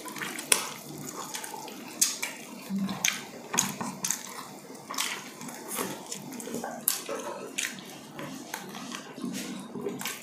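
Close-up wet chewing and lip smacking of people eating chicken and fish with their hands: many irregular sharp, wet mouth clicks.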